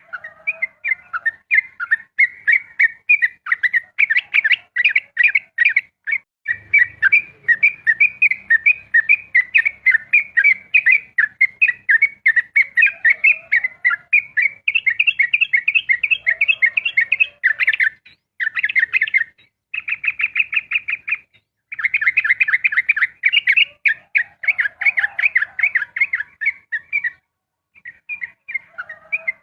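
Sooty-headed bulbul singing long, rapid runs of chirping notes, broken by a few short pauses, with one held note about two-thirds of the way through.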